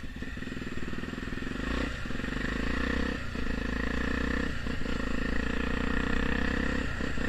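Honda Tornado's single-cylinder engine running through an aftermarket Pro Tork exhaust, a steady note that breaks briefly about four times.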